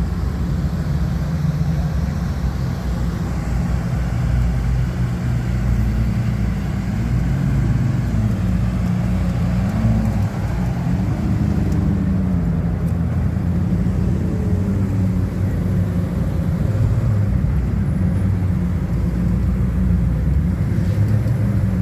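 Exotic car engines running at low speed as the cars move past in a line. A steady low drone of several engines, with the pitch rising and falling a few times in the middle as cars rev or pass close by.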